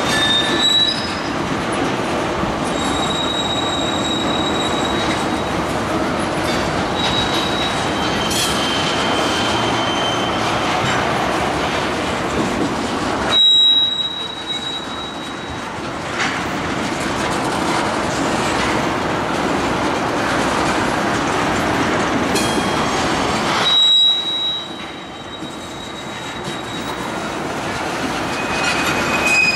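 Freight train's ethanol tank cars rolling past close by: a steady rumble and clatter of steel wheels on the rails, with thin, high-pitched wheel squeals coming and going. The sound drops off suddenly twice and builds back up, once about halfway through and again a few seconds before the end.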